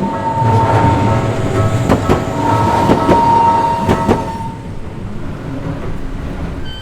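Tokyu Setagaya Line train rolling over a level crossing, its wheels clacking over rail joints in two quick pairs, about two and four seconds in. The crossing's warning bell sounds over the train as a steady high ringing and stops about four and a half seconds in.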